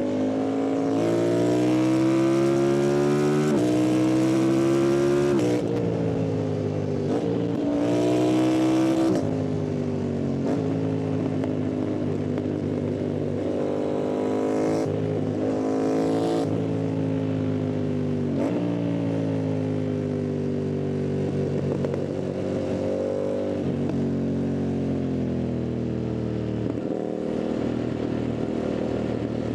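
Yamaha MT-07's 689 cc parallel-twin engine heard from the rider's seat, revving up hard under acceleration, dropping at a gear change about five and a half seconds in and pulling hard again, then running at steadier, rising and falling revs. Wind rush on the microphone swells during the hard pulls.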